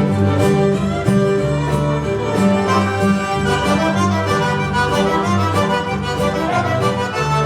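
Cajun string band playing an instrumental tune, with the fiddle leading over accordion and strummed guitar. A bass line steps between two notes about twice a second, keeping a dance beat.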